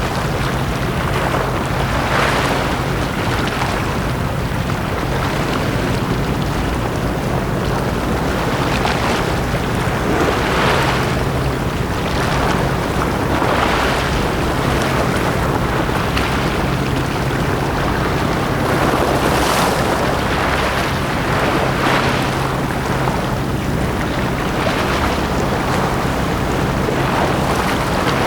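Small sea waves washing onto the shore, one wash swelling and fading every two to three seconds, over a steady low hum.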